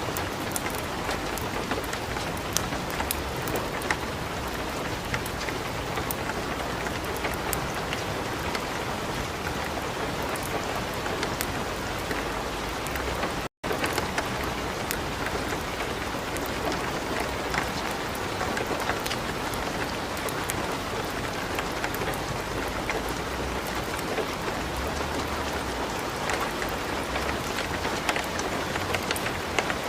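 Steady light rain mixed with a wood fire crackling in a fireplace, sharp pops scattered through the hiss. The sound cuts out for a split second about halfway through.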